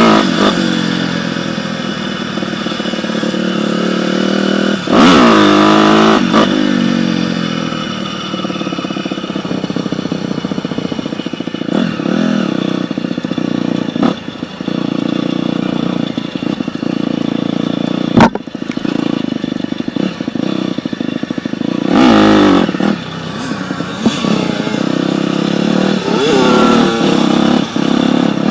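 Dirt bike engine running and revving, its pitch sweeping up sharply several times: near the start, about five seconds in, and again around twenty-two seconds. One sharp knock sounds about eighteen seconds in.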